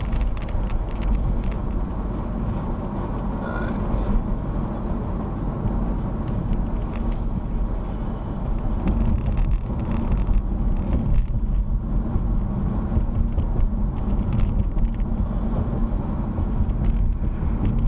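Steady road and engine noise inside a moving car, picked up by a dashcam microphone, with a faint constant high-pitched tone.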